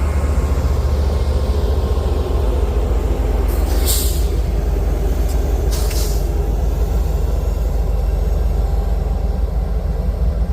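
Loaded coal train passing at close range: a steady heavy rumble, with two short hisses of air about four and six seconds in.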